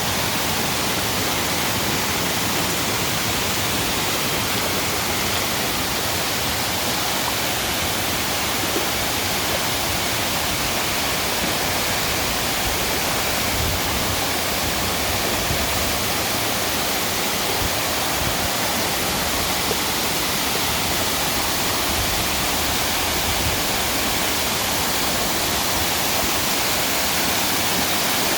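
Waterfall cascading, a loud, steady rush of falling water with no breaks or changes.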